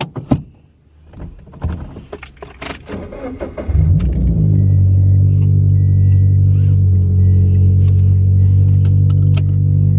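A few clicks and knocks of handling in the car, then the Toyota 86's 2.0-litre flat-four boxer engine is cranked and fires up about three and a half seconds in, catching after two cranks after sitting unused, and settles into a steady idle. A faint beeping repeats over the idle.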